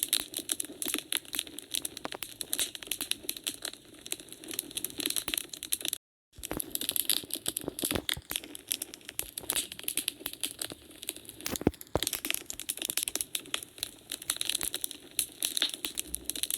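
Wood fire crackling in a fireplace: a dense run of irregular pops and snaps, with a few sharper cracks. The sound cuts out completely for a moment about six seconds in.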